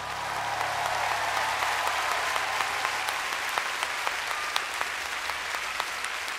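Audience applauding at the end of a song, swelling over the first second and then holding steady, with single sharp claps standing out.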